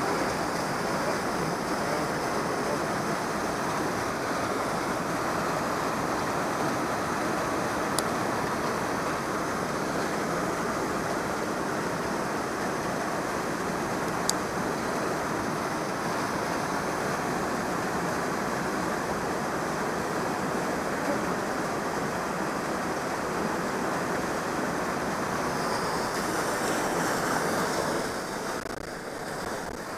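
Powerful waterfall on a glacial river, its water rushing in a steady, dense noise. Two brief clicks stand out about eight and fourteen seconds in.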